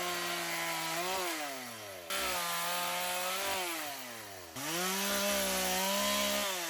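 Chainsaw cutting mimosa wood, the engine running at high revs. Twice its note sags and falls in pitch as the chain bogs down in the cut, then jumps back up.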